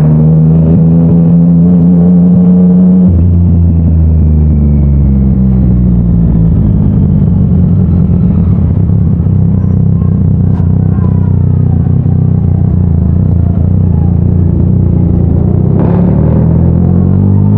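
Yamaha MT-09 inline three-cylinder engine through an Akrapovič titanium exhaust, held at raised revs, then dropping about three seconds in to a low idle rumble; near the end the revs climb again.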